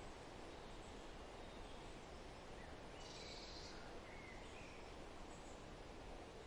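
Faint forest ambience: a steady hiss of background noise with a few faint bird chirps, and a brief burst of high twittering about halfway through.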